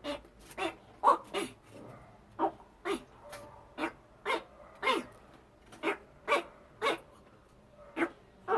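A male jabuti tortoise makes short, pitched calls again and again, about fifteen in all, each a brief falling note, mostly about half a second apart with a few longer pauses. The calls come with the tortoise's penis out, which the owner takes for sexual arousal.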